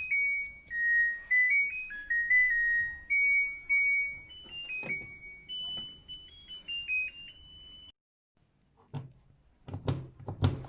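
LG washing machine's electronic buzzer playing its short beeping melody, a string of pure notes stepping up and down for about eight seconds, the tune that typically marks the end of the wash cycle. A few short knocks and clicks follow near the end.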